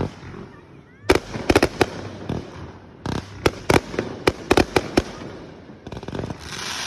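Fireworks going off in quick volleys of sharp bangs: one bang at the start, a rapid cluster about a second in, another run from about three to five seconds, then a rising hiss near the end.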